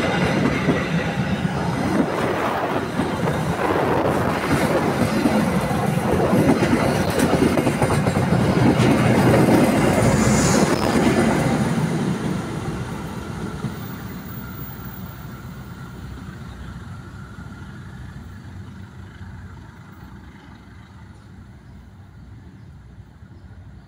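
Passenger coaches of the Joglosemarkerto train rolling past at close range, their wheels rumbling loudly on the rails. About halfway through, the last coach goes by and the sound fades steadily as the train moves away.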